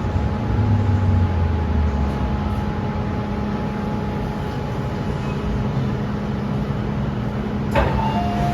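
MTR M-train running between stations: steady rumble of wheels on track with a constant electric hum. Near the end a click, then a short two-note electronic beep.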